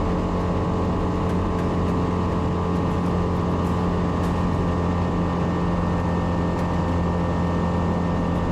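Savannah ultralight's engine and propeller running steadily at constant power, a low even drone as heard from the cockpit.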